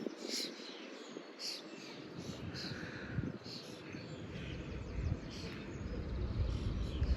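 Birds calling: short high chirps about once a second, with a few lower calls among them. A low rumble builds over the last couple of seconds.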